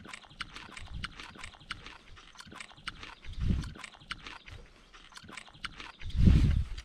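Close-up chewing and mouth noises: a run of small wet clicks and smacks as food is eaten with chopsticks, with two louder low rumbles, one about halfway through and the loudest near the end.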